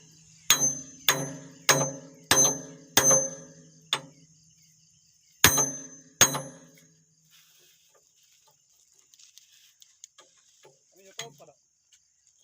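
Hammer blows on metal during an excavator repair, each strike ringing briefly. A run of strikes comes about one every half second, two more follow a second apart after a pause, and a few lighter knocks come near the end.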